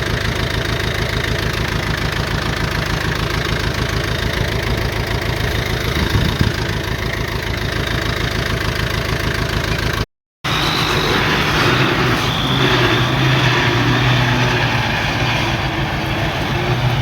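Heavy diesel engine of earth-moving equipment running steadily with an even low pulse. The sound cuts out for a moment about ten seconds in, then a diesel engine comes back, running a little louder.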